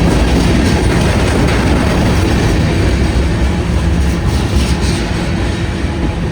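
Freight train rolling past, a steady loud noise of its wagons' wheels on the rails.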